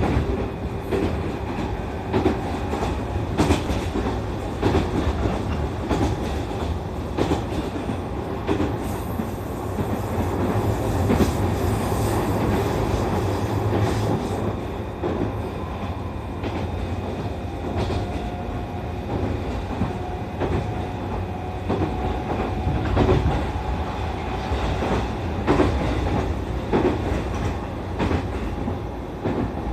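Cabin running noise of a JR East E531 series electric train on the move: a steady rumble of wheels on rail, with irregular clicks as the wheels cross rail joints.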